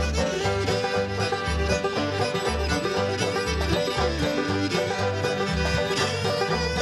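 Old-time string band playing an instrumental break, with banjo and fiddle over a steady bass beat.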